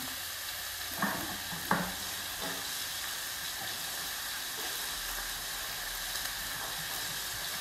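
Ground chicken browning in olive oil in a skillet, sizzling with a steady hiss. Two short knocks come about a second in.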